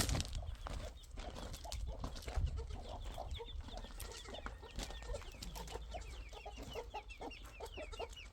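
Chickens clucking and peeping, a rapid run of many short calls that thickens from about three seconds in. A single sharp knock at the very start.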